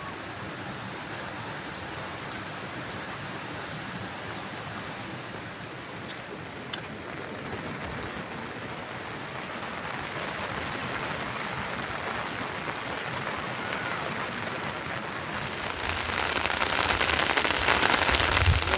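Heavy rain falling in a steady hiss. It grows louder and brighter about three-quarters of the way in.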